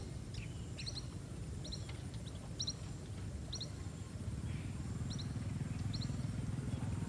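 A small bird calling with short, high chirps repeated about once a second, over a low rumbling noise that grows louder about four seconds in.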